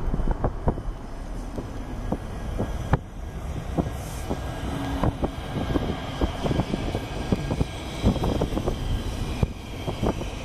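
Ride noise heard inside a moving Metrolink commuter train: a steady rumble with many irregular clicks and knocks from the wheels running over the track.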